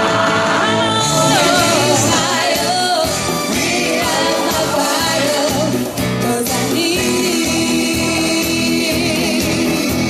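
Live pop music with a woman singing over a steady beat, played loud through a PA in a hall.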